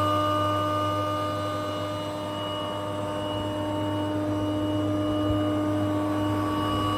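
A KP 321 combination woodworking machine running steadily, its electric motor and spinning cutter giving a constant hum with several steady tones. The level sags slightly about two seconds in, then recovers.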